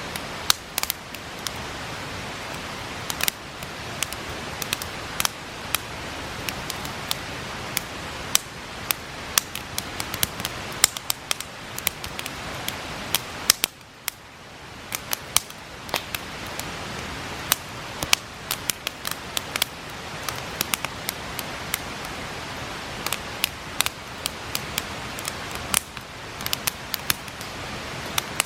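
Wood campfire crackling, with frequent irregular sharp pops and snaps, over the steady rush of a river. The background rush dips briefly about halfway through, then resumes.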